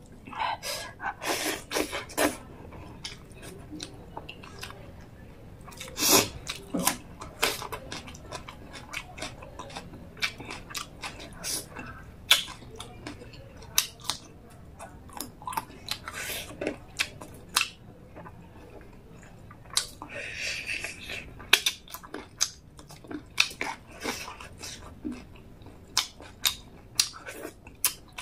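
Close-up mouth sounds of eating rice and chicken gravy by hand: wet chewing with many short lip smacks and clicks, coming irregularly.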